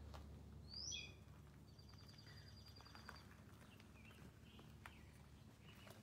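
Near silence with faint bird calls: a short falling whistle about a second in, then a thin, steady, high whistle, then a few small chirps.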